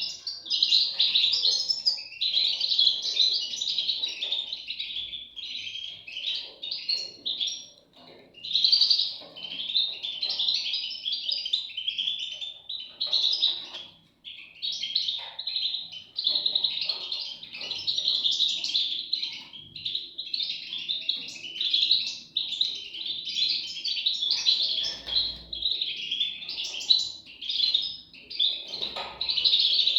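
European goldfinch chicks chirping in a dense, nearly continuous run of high calls, with brief pauses about 8 and 14 seconds in.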